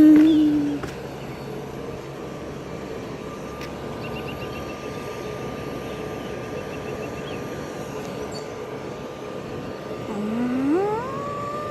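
Jet airliner engines running at the airport, a steady whine over a noisy rush. About ten seconds in, an engine spools up and its whine rises steeply in pitch. A brief voice is heard at the very start.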